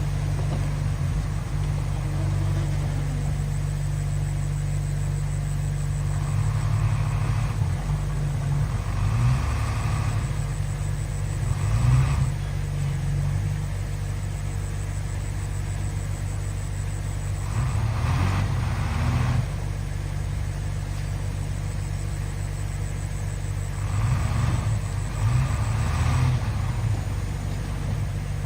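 Diesel engine of heavy earthmoving machinery running steadily, with its note swelling briefly under load several times.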